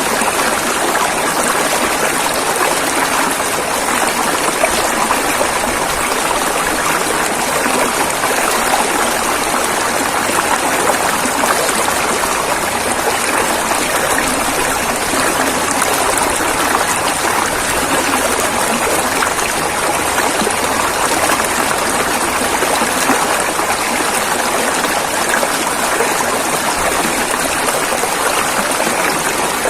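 Steady rushing of a river, with a dense splashing of water flowing over stones that keeps an even level and does not change.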